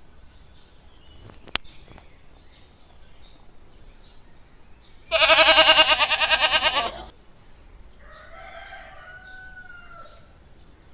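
A farm animal's loud call, about two seconds long and wavering, about halfway through, over faint bird chirps. Quieter calls follow near the end.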